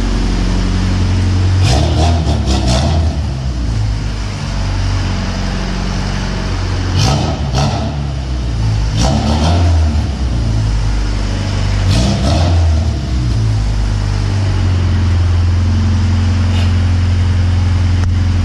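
Jeep Grand Cherokee SRT's Hemi V8 with a muffler-delete exhaust, droning steadily while driving and revving hard four times, each rev with a run of sharp crackles.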